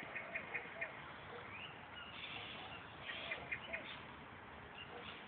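Birds calling in the treetops: quick runs of short, high chirps, a couple of brief raspy notes, and softer lower whistled notes, over a steady hiss.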